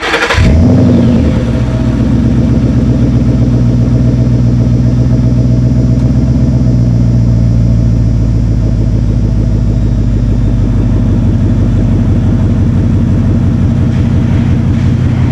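A 2011 Ford Mustang GT's 5.0 V8 running through a Cherry Bomb Pro axle-back exhaust with a deep note. There is a brief flare of revs about half a second in, then it settles to a steady, even low-speed run.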